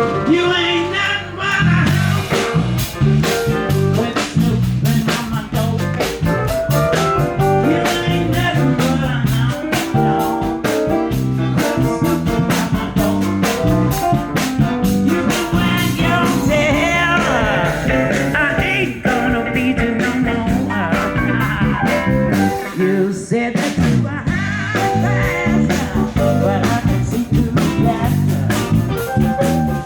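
Blues-rock band playing live, with guitar over a steady beat.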